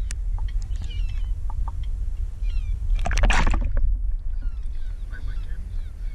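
Birds calling in many short, high, downward-sliding chirps over a steady low rumble, with a brief rush of noise about three seconds in.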